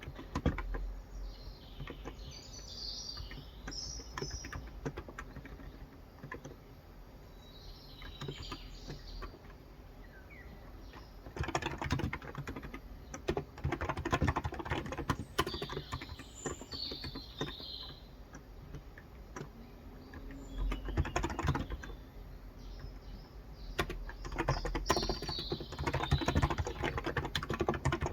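Typing on a Cox Endeavor electro-capacitive (contactless) tenkeyless keyboard with 35 g switches: a steady patter of soft keystrokes, with several faster, louder runs. Birds chirp in the background now and then.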